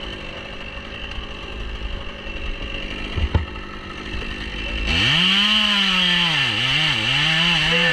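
Chainsaw idling, then revved to full throttle about five seconds in, its engine note dipping a few times as it is worked into a cut.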